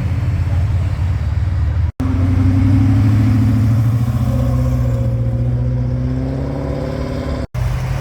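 Muscle car's V8 engine running steadily at low revs near idle. The sound cuts out for an instant twice, about two seconds in and near the end.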